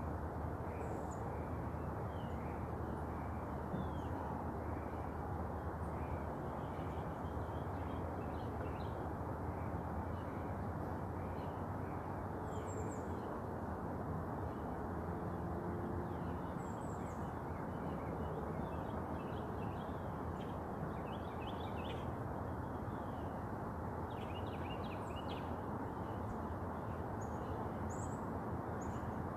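Birds calling and chirping on and off over a steady background hiss, with a busier flurry of calls about three quarters of the way through.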